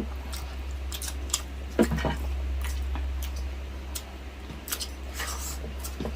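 Close-up eating sounds: chewing with scattered wet clicks and smacks, over a steady low hum.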